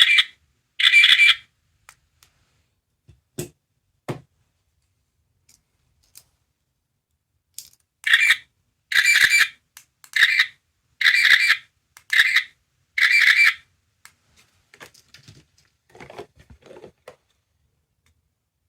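Small electronic sound-making capsule toy playing short sound effects through its tiny speaker: one burst about a second in, then six in a row about half a second each, around the middle. Faint clicks and knocks from handling the toy and pressing its button come in between.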